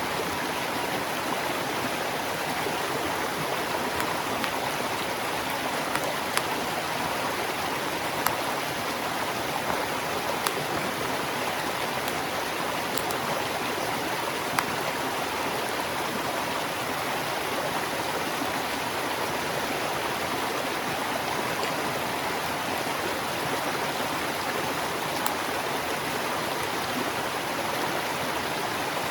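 Steady rushing of a flowing stream, with a few sharp pops scattered through it.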